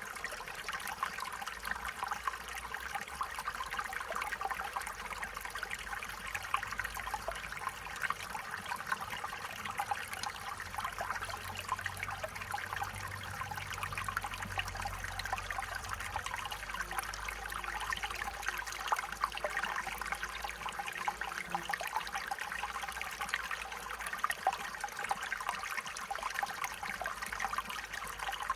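Stream water flowing, a steady trickling and babbling with many small splashes.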